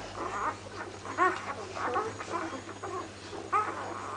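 Six-day-old puppies whimpering and squeaking: a run of short, high cries that rise and fall in pitch, loudest just over a second in and again near the end.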